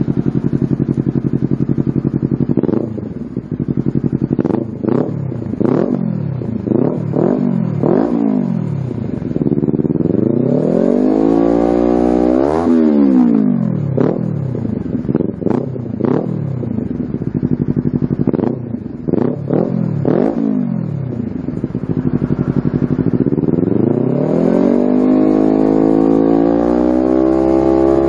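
Honda CBR250RR's parallel-twin engine revved through a slip-on carbon Yoshimura exhaust. It starts at idle, then comes a run of quick throttle blips, a long rev that rises and falls, more short blips, and another long rev near the end.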